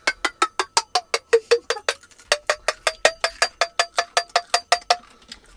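Fast, even knife chopping on a cutting board, about five or six strokes a second. Each stroke rings with a tone that falls over the first two seconds, then holds steady until the chopping stops near the end.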